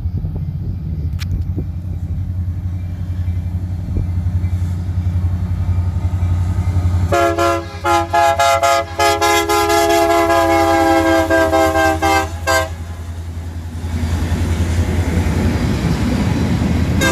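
Freight locomotive air horn sounding a few blasts about seven seconds in, the last held for several seconds, as a chord of several tones over a steady low rumble. The rumble grows louder again near the end.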